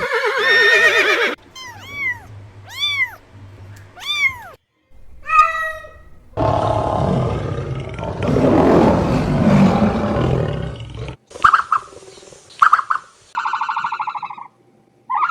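A run of separate animal calls, one after another: three short arching calls about a second apart, then a long rough call from about six seconds in, then short bursts and a buzzing pulsed call near the end.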